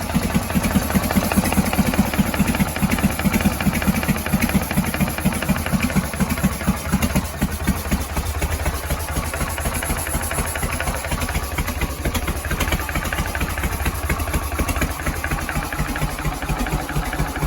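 1978 AMF-era Harley-Davidson FLH's Shovelhead V-twin idling with a steady, even pulse that is heavier for the first several seconds and lighter after.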